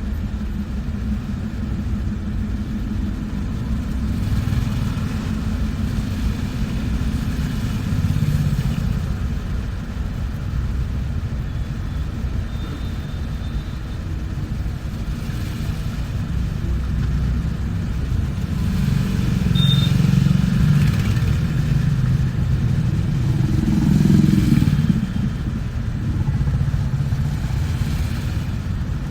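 Low engine and road rumble heard from inside a moving bus, rising and falling in loudness as it drives, with a short high tone twice.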